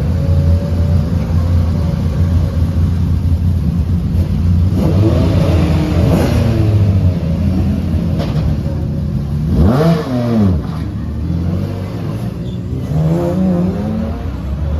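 Racing cars going by on a circuit, their engine notes rising and falling over a steady low hum. One car is loudest about ten seconds in, its engine pitch sweeping up and then dropping as it passes.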